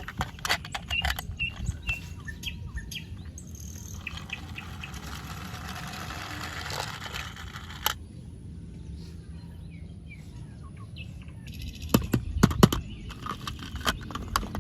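Birds chirping faintly over a steady low background rumble, with scattered sharp clicks and knocks; the loudest cluster of clicks comes about twelve seconds in.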